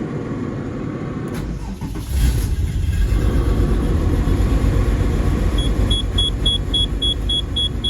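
Porsche 964 Carrera 4's air-cooled 3.6-litre flat-six engine being started: a brief crank about a second and a half in, then it catches and runs with a steady low rumble. From about halfway through, a warning chime beeps about four times a second.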